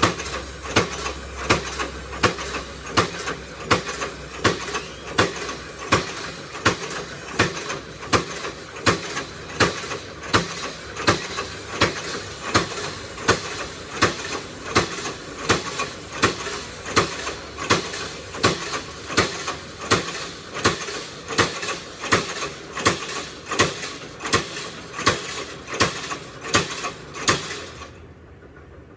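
Sharp knocks repeating at an even pace, about three every two seconds, stopping shortly before the end.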